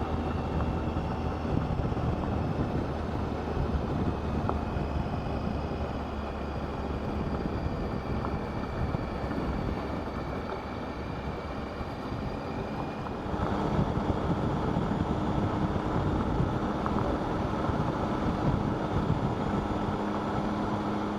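Motorcycle engine running while riding on a gravel road, mixed with wind noise on the microphone. The engine note slowly falls for the first twelve seconds or so, then about 13 s in it gets louder and holds steadier.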